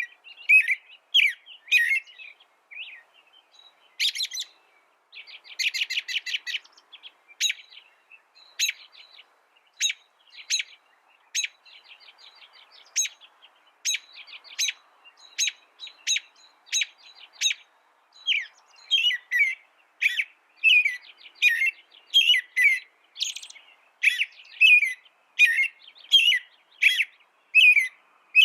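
A songbird singing: a long string of sharp chirps broken by short rapid trills. Louder notes come about two a second in the second half.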